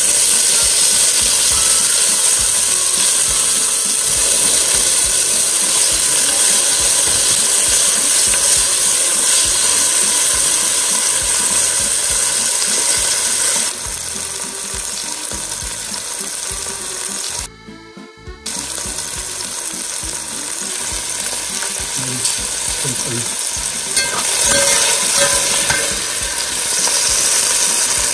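Diced bell peppers frying in hot olive oil in an enamelled cast-iron pot: a steady, loud sizzle. It drops abruptly a little past halfway and breaks off for about a second. Near the end a metal skimmer clicks and scrapes against the pot as the peppers are stirred.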